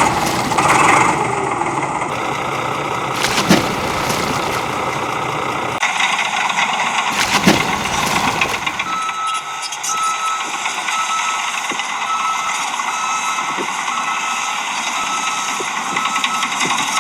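Engine-like mechanical running noise with a few knocks, which thins out about nine seconds in. From then on a short, high beep repeats about twice a second, like a reversing alarm, over the running noise.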